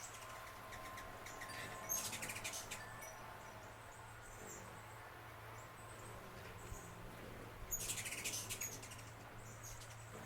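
Birds calling, with two bursts of rapid, chattering clicks (one about two seconds in, one near the end) and scattered short high chips between them, over a steady low hum.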